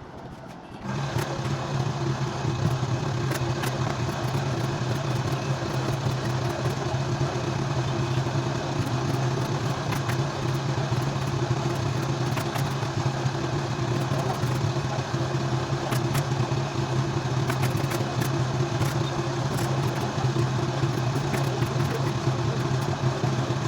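A motor running steadily with a low, even drone, starting about a second in, with scattered faint clicks over it.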